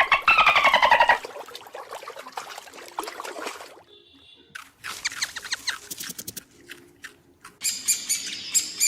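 Birds chirping and squawking: a loud, pitched, pulsing animal call for about the first second, then scattered clicks and calls, and a run of quick high chirps near the end.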